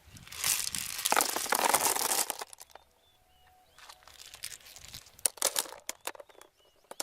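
Rustling and crinkling handling noise: a loud spell for the first two and a half seconds, then, after a pause of about a second, a softer spell with a few sharp clicks.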